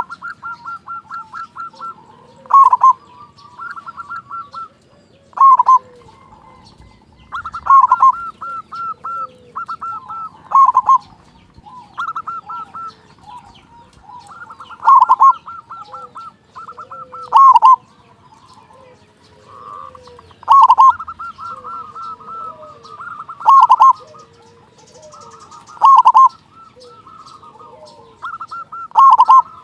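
Zebra dove (perkutut) song, in full voice. A loud, low cooing call comes about every two to three seconds, and softer quick runs of short staccato notes fill the gaps.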